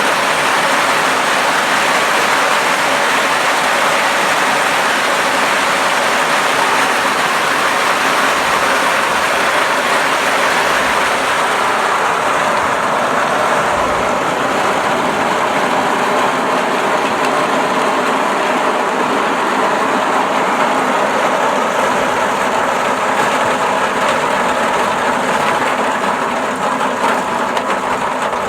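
A machine running steadily and loudly, with a dense rattling noise.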